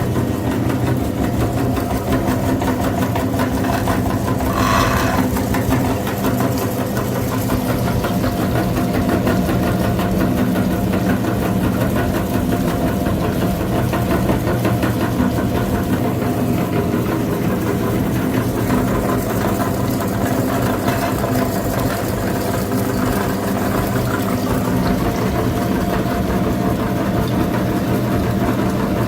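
An engine running steadily at an even speed, with a brief high tone about five seconds in.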